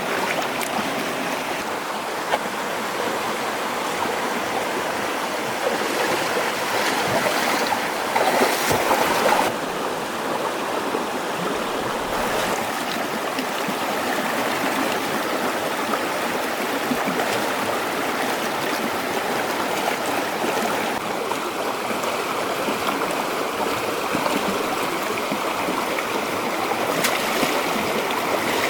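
Running water of a stream, a steady rushing that grows louder for a few seconds about six seconds in.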